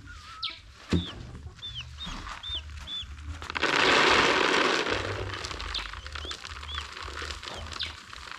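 Chickens calling, with short high peeps repeating about twice a second. A louder rush of noise, lasting about a second and a half, comes through the middle.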